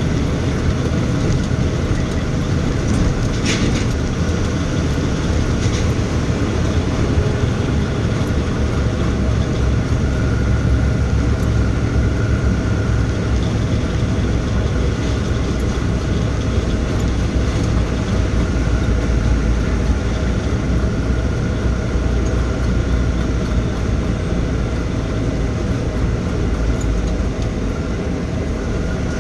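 Loaded Tata Signa trailer truck's diesel engine running steadily under load as it climbs a steep ghat, with a deep rumble throughout. A single sharp click sounds about three and a half seconds in.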